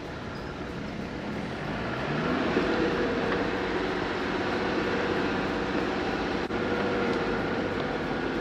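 Jeep's engine running, revving up about two seconds in and then holding a steady, higher pitch.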